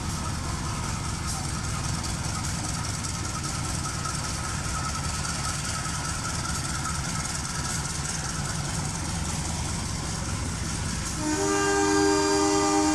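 Train running on the line with a steady low rumble, then the locomotive's horn sounds a long, loud multi-tone chord near the end.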